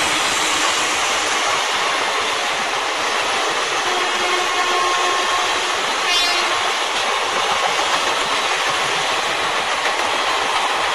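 A passenger train's coaches running past on the track: a loud, steady noise of wheels on rails.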